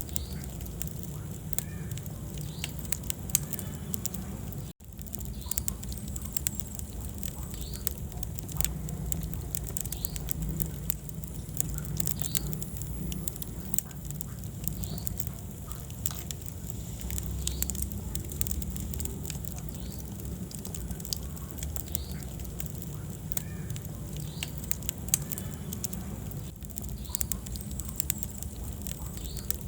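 Wood fire crackling in a fireplace: frequent small pops and snaps over a steady low rumble of the flames. The sound drops out for an instant about five seconds in.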